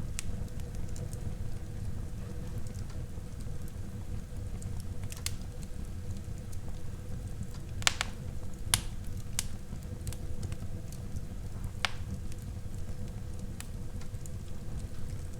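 Wood fire burning in a fireplace: a steady low rumble of flames with scattered sharp crackles and pops, the loudest a few about halfway through.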